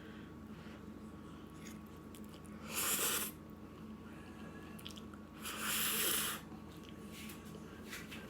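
Two loud, breathy rushes of air from a person's mouth, each lasting under a second and a few seconds apart, as she reacts to the heat of Buldak spicy noodles. Faint chewing sounds come between them.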